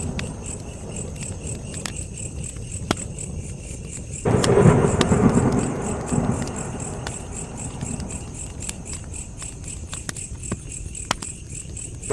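Wood fire crackling, with scattered sharp pops, under a steady pulsing chirp of crickets. About four seconds in, a low rumbling surge starts suddenly and fades away over the next few seconds.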